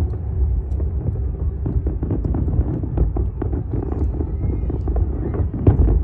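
Aerial fireworks shells bursting in quick, overlapping bangs over a steady low rumble. A louder run of bangs begins near the end.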